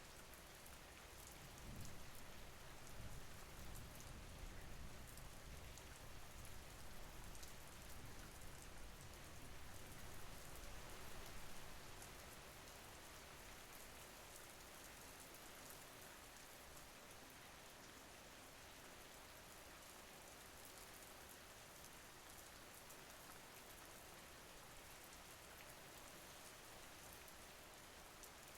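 Faint steady rain with fine scattered drop ticks. A low rumble rises under it about two seconds in and fades out by about twelve seconds.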